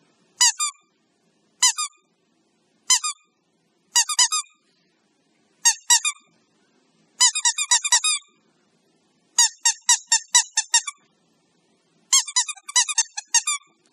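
Squeaky dog toy being squeezed or chewed: short high squeaks in pairs about once a second, then quicker runs of squeaks in the middle and near the end.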